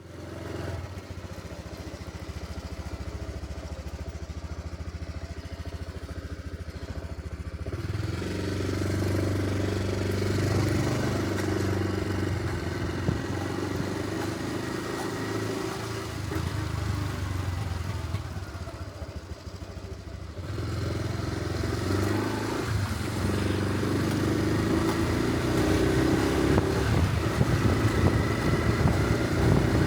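Honda Super Cub C125's single-cylinder engine running under way, picking up about eight seconds in, easing off briefly near twenty seconds, then pulling harder again.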